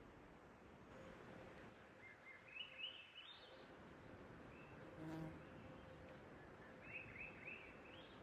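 Faint birdsong: a small songbird sings two short phrases of quick notes stepping upward in pitch, about two seconds in and again near the end, over a faint outdoor hiss.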